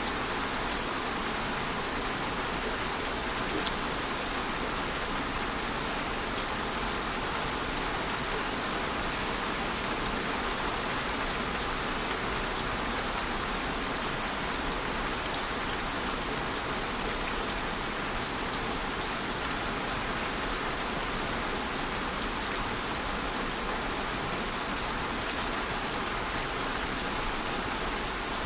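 Steady rainfall, a constant even hiss with occasional faint drop ticks.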